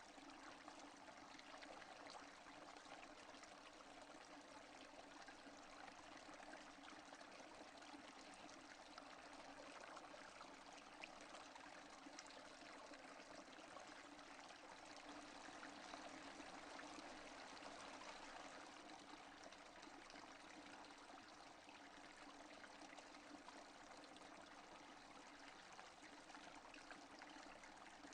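Steady rain falling, soft and even, with no thunder.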